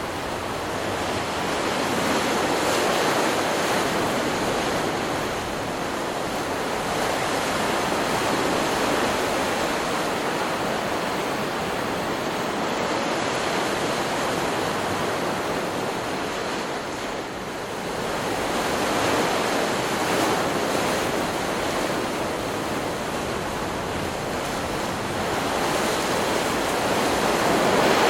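Ocean surf: a continuous rush of breaking waves that swells and eases every several seconds.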